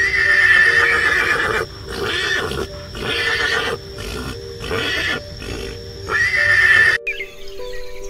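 A horse neighing: a loud, high whinny at the start, shorter calls in a series after it, and another high whinny about six seconds in that cuts off suddenly.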